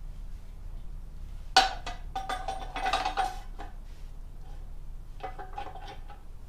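Steel parts of a motorcycle lift jack being handled: a sharp metallic clank about one and a half seconds in, then rattling, ringing clinks, and another short run of clinks near the end.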